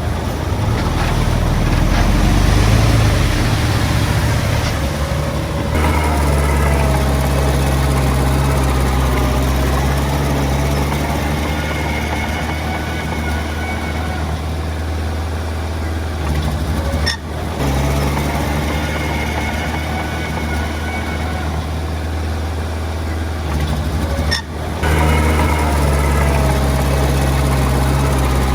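Heavy diesel engines of earthmoving machinery running steadily under load, with a deep low drone and a clattering mechanical haze above it. The sound changes abruptly about 6, 17 and 24 seconds in.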